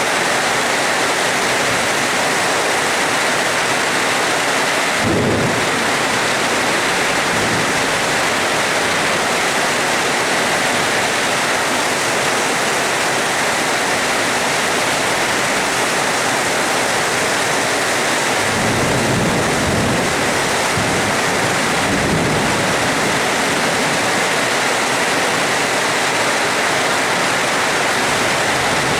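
Steady rain with thunder: a sudden clap about five seconds in, and a low rumble rolling for a few seconds past the middle.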